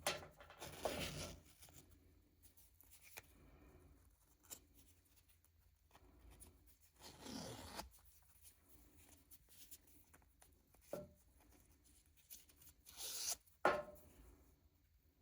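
Packaging being handled and torn open by hand: three short bursts of rustling and tearing, with a few small clicks between them.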